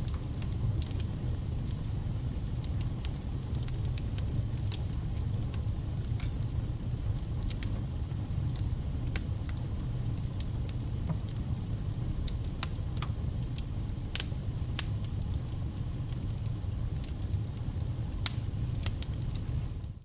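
Wood fire burning: a steady low rumble of flames with irregular sharp crackles and pops from the firewood. The sound dips out for an instant at the very end.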